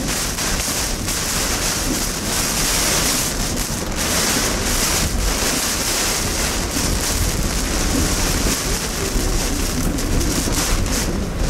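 Typhoon wind blowing hard and buffeting the microphone, with rain: a loud, steady rush of noise with a low rumble that swells and eases with the gusts.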